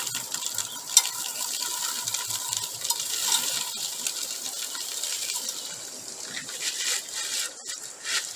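Crushed-stone gravel poured slowly into a box, a steady rattling patter of small stones clicking against each other, with one sharper click about a second in.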